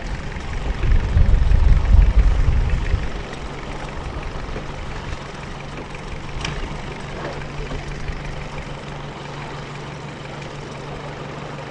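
Longtail boat engine running: a loud low rumble swells about a second in and eases after about three seconds, settling into a steady low hum. There is a single sharp click a little past the middle.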